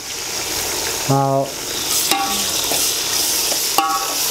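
Chopped tomatoes sizzling as they go into hot oil and onions in an aluminium pot, stirred with a metal ladle that clinks against the pot a few times with a short ring.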